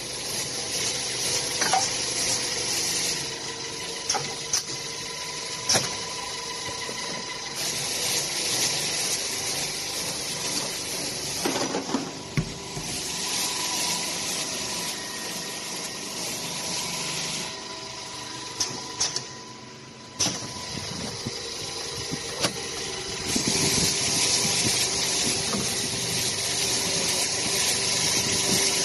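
Automatic polishing machine for copper air-conditioner filters running: a steady hum with a hiss that comes on and drops away in spells of several seconds, and scattered sharp clicks.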